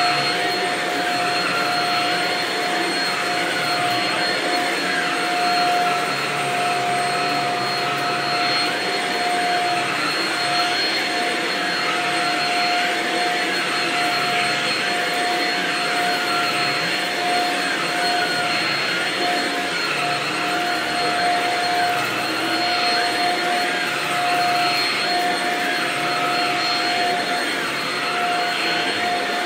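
Vacuum cleaner running continuously, a steady motor whine over the rush of its suction airflow, with small swells as it is pushed back and forth.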